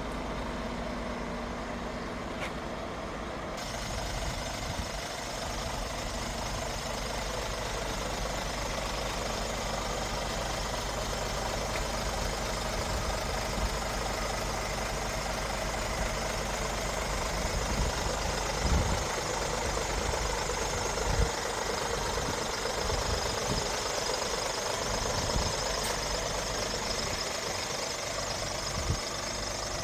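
Scania R500 truck's diesel engine running steadily. About three and a half seconds in the sound fills out and grows slightly louder. A few short knocks come later on.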